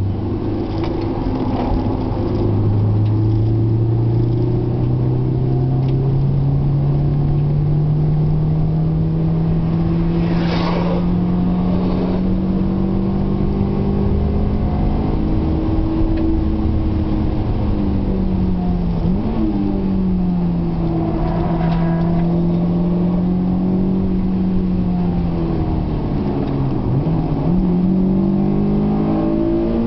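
Honda S2000's four-cylinder engine heard from inside the cabin on track, with tyre and road noise underneath. The revs climb slowly over the first half, then dip and pick back up twice, about two-thirds of the way in and again near the end.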